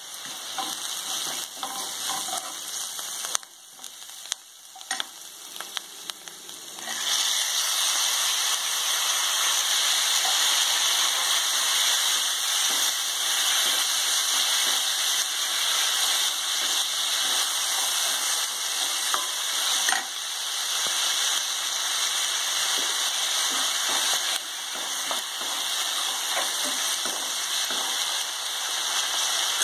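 Vegetables frying in oil in a kadai, with small spatula clicks; about seven seconds in the sizzle jumps up loud and stays that way as chopped tomatoes go into the hot oil and are stirred, steaming.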